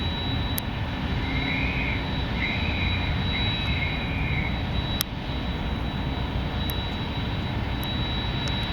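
Three short, high whistles from the passing navy ships, about a second and a half in, over a steady low rumble. The speaker guesses the whistling is because the ships are very close to each other.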